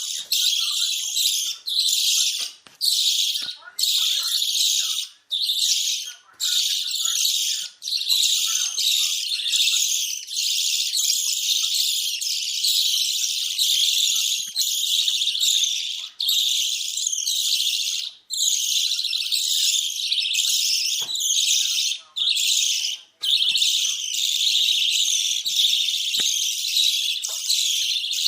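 Budgerigars chattering and warbling: a dense stream of high chirps and squeaks, broken by short pauses every second or two.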